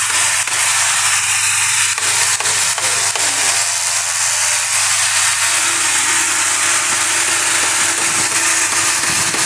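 Woodworking power tool running steadily: an even rushing noise over a low hum, without a break.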